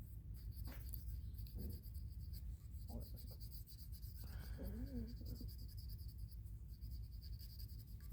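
Faint, fast scratching and scrubbing as old grease and debris are cleaned out of a Subaru Impreza rear brake caliper bracket's slide-pin bore, over a low steady hum. A brief wavering tone comes about halfway through.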